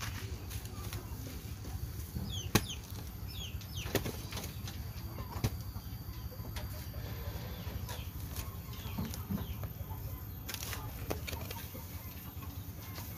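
Short bird chirps and clucks, with scattered sharp taps and knocks over a low steady rumble.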